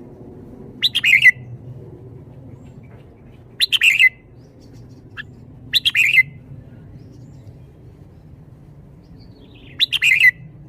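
Red-whiskered bulbul singing four short, quick song phrases, about a second, four, six and ten seconds in.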